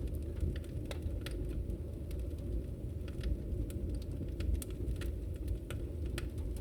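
Wood fire crackling in a fireplace: irregular sharp pops and snaps, several a second, over a steady low rumble of flames.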